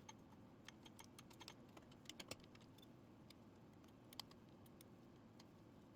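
Faint, irregular light clicks and taps of hand tools and small metal parts being handled, over a faint low hum.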